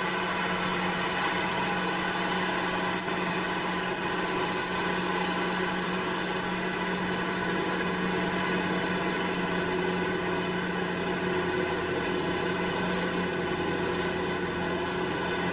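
Engine of a piece of farm machinery running steadily at an even speed, a constant drone with no change in pitch.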